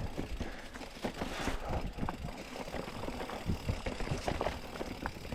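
Mountain bike rattling over rough, rocky singletrack: irregular clicks and knocks over a low rumble.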